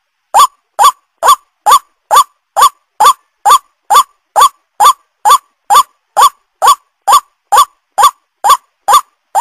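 White-breasted waterhen (ruak-ruak) call, a short rising note repeated steadily a little over twice a second, played as a bird-lure recording.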